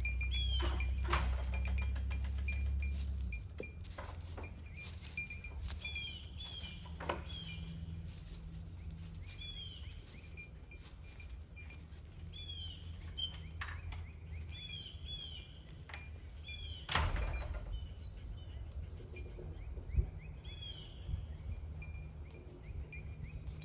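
Small birds chirping repeatedly in short arched calls, with scattered light clinks and a louder knock about 17 seconds in. A low rumble fades out about three seconds in.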